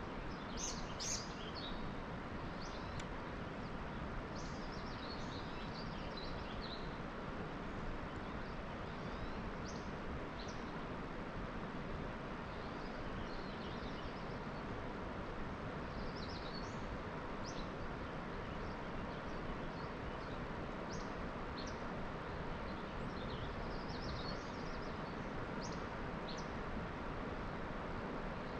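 Small birds chirping on and off over a steady, even outdoor background rush.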